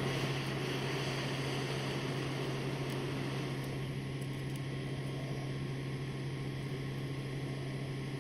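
A steady low hum with a constant hiss over it, the hiss easing slightly about four seconds in.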